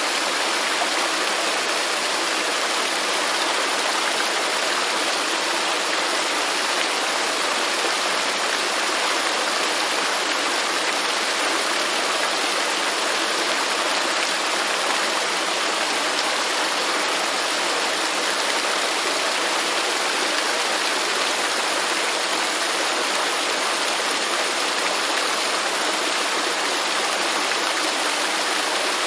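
Waterfall: falling water rushing in a steady, unbroken hiss with no change in level.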